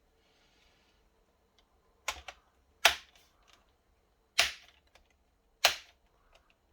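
Sharp plastic clicks from a laptop's screen bezel and casing being pressed back together: a quick double click, then three single snaps about a second and a half apart.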